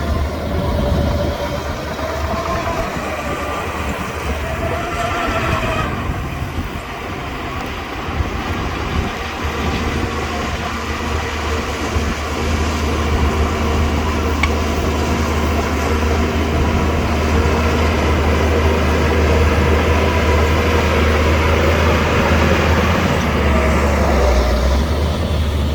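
Shantui DH17C2 crawler bulldozer's diesel engine running under load with a steady drone, over the clanking of its steel tracks and undercarriage as it pushes dirt.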